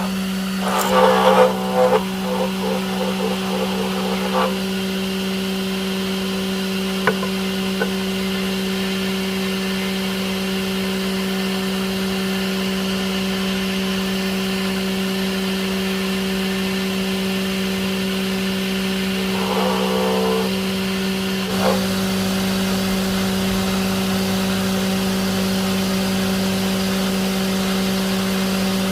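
A steady mechanical hum, like a motor running at a constant speed. A few short bursts of other sound come about a second in and again about twenty seconds in.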